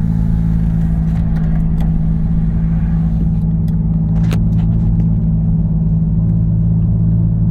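Steady low exhaust drone and road noise inside the cabin of a 2012 Ford Fusion with the 2.5 L four-cylinder and a Magnaflow 10416 exhaust, cruising at an even speed. The drone is 'not too bad' and holds a constant pitch, with a faint tick about four seconds in.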